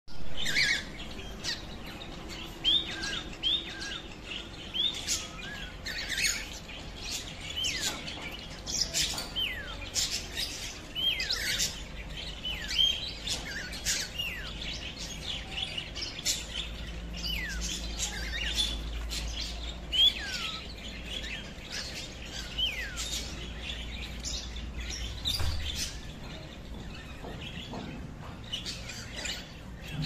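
Birds chirping all the way through: many short calls, several of them sliding down in pitch, mixed with sharp clicking notes.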